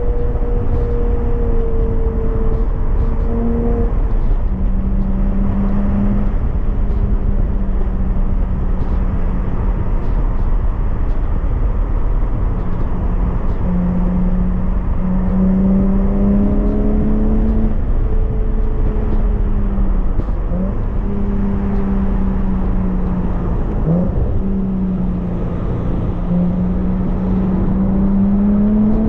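Porsche Boxster S 987.2's 3.4-litre flat-six running under load at mid revs, its note holding fairly steady, stepping down about four seconds in and rising again later. There are two brief dips in pitch in the second half. A constant low rumble runs underneath.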